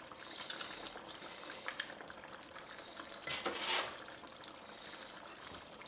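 Canned diced tomatoes and their juice poured into a pan of simmering braising liquid, with a louder pour about three and a half seconds in.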